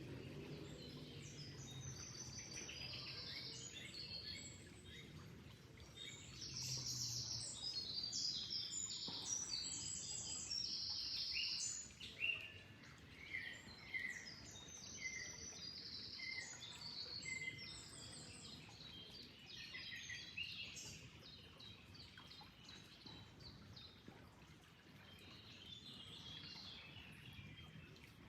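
Several small birds chirping and trilling, busiest in the first half and thinning out later, over a faint steady rush of flowing water.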